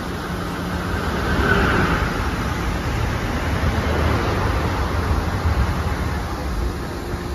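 NJ Transit Comet passenger coaches rolling past close by as the train pulls away from the station: a steady rumble of steel wheels on rail, swelling a little after about a second and a half.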